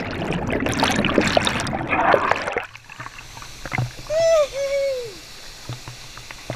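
Water splashing and sloshing, which drops away suddenly about two and a half seconds in. About four seconds in, a person gives two short whooping calls.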